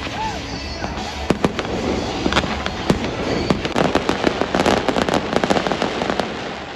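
Fireworks going off: scattered bangs, then a dense rapid crackling over the middle and second half that dies away near the end.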